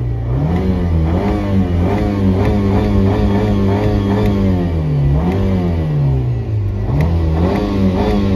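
A Nissan Rogue's engine is revved hard, heard from inside the cabin as the gas pedal is pressed and let off. The revs climb, hold and drop again and again, with one longer fall about halfway through before climbing again.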